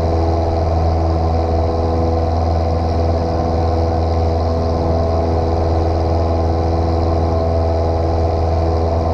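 Light single-engine piston airplane's engine and propeller droning steadily, heard from inside the cockpit, with no change in power.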